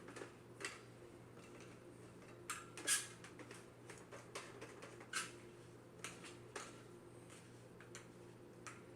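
Scattered clicks and knocks of hair-steamer parts being handled and tightened together by hand, the loudest about three seconds in, over a steady low hum.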